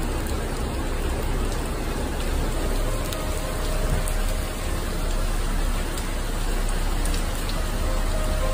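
Rain pouring steadily during a thunderstorm, with wind rumbling on the microphone.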